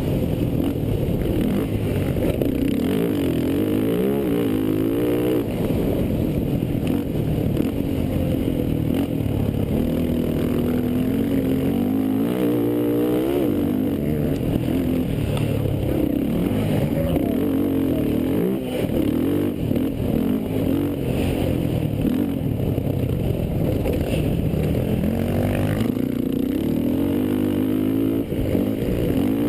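Racing quad (ATV) engines revving, their pitch climbing and dropping over and over as the throttle opens and closes.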